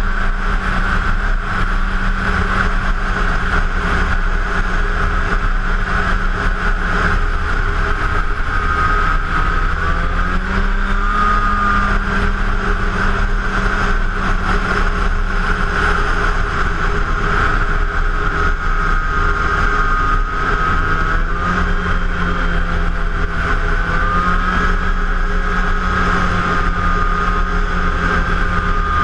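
2006 Arctic Cat F7 Firecat snowmobile's 700 cc two-stroke twin engine running steadily under way, its pitch rising slightly about ten seconds in and again a little past twenty seconds, over a steady rush of noise.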